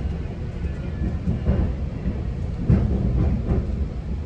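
GO Transit commuter train running on the rails: a steady low rumble with a few clunks, the loudest nearly three seconds in.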